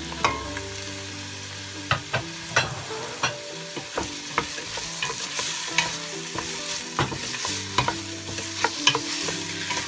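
Diced chicken breast sizzling as it sautés in butter with onion and garlic in a stainless steel pot, stirred with a wooden spoon that knocks and scrapes against the pot in many sharp clicks.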